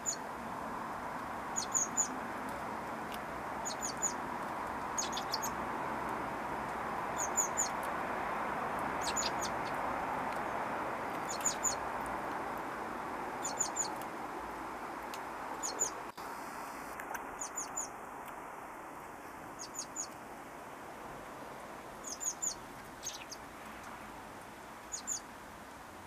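A small bird chirping: short, high double chirps repeated about every two seconds, over a steady background hiss.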